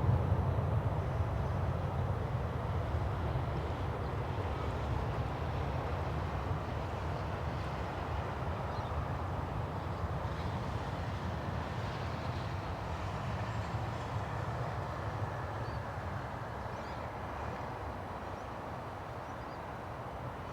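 Jet engine rumble of a departing Fokker 100 with Rolls-Royce Tay turbofans, a deep, steady sound that slowly fades as the aircraft climbs away.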